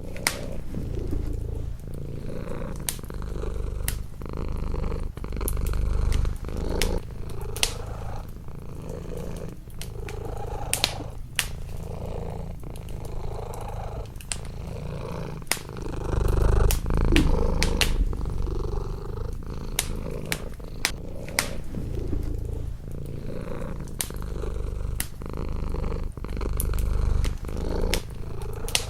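A domestic cat purring steadily and close, the purr swelling and easing every couple of seconds with its breathing. A wood fire crackles with frequent sharp pops over it.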